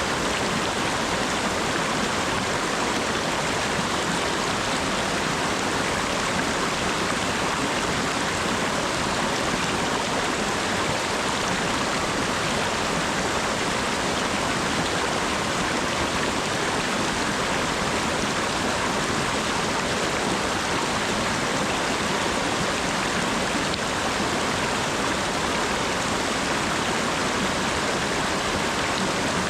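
Steady rainfall, an even, unbroken hiss of rain with no single drops or other events standing out.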